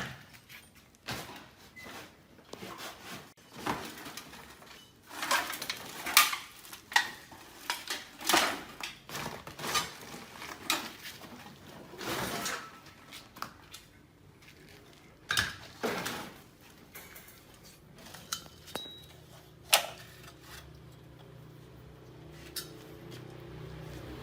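Metal engine parts and hand tools clinking and clanking at irregular intervals as a small rusty 50cc two-stroke engine is handled and worked on.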